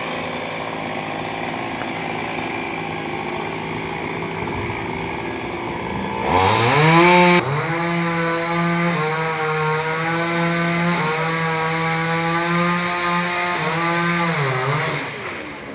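Two-stroke chainsaw idling, then revved up about six seconds in, with a loud harsh burst for about a second. It then holds a high, steady engine note for several seconds and drops back near the end.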